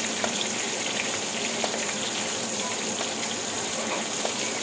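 Pointed gourds shallow-frying in mustard oil in a kadai: a steady sizzle, with a few faint light taps as they are turned over.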